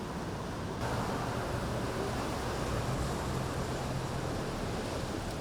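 Outdoor coastal ambience: steady surf and wind noise, joined about a second in by a low, steady engine-like hum.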